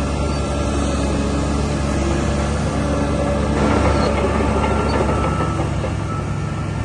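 DH17 C2 low-ground-pressure bulldozer's diesel engine running steadily, getting a little louder and noisier about halfway through.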